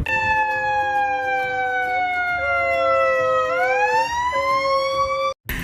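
A siren-like wail whose pitch falls slowly for about three seconds and then rises again. A lower steady tone under it breaks off a few times. The sound cuts off abruptly just before the end.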